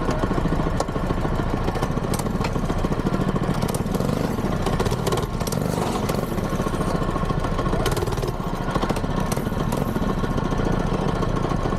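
Small mini-bike engine running steadily, with scattered clicks and rattles over it.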